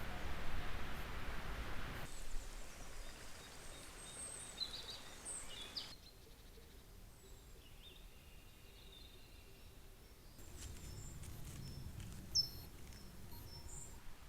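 Forest ambience with scattered short, high bird chirps, in several segments that change abruptly; the first couple of seconds carry a steady hiss, and the middle stretch is quieter.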